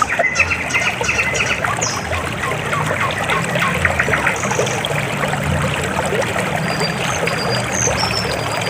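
River water flowing steadily, a continuous babble of many small splashes and gurgles.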